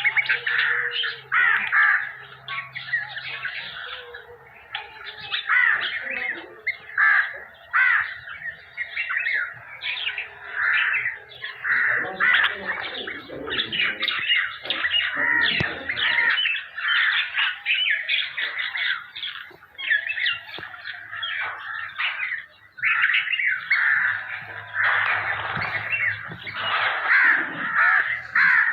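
Hungry nestlings begging for food, with rapid, repeated calls from several chicks at once that overlap without a break.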